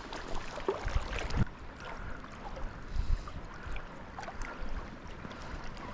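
River water running, with scattered small ticks and a few low thumps, loudest about one and three seconds in.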